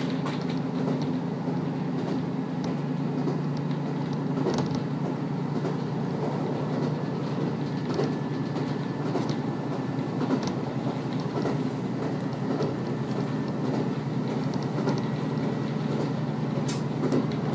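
KiHa 54 diesel railcar running along the line, heard from inside the car: a steady low drone of the engine and wheels on the rails, with a few short clicks scattered through it.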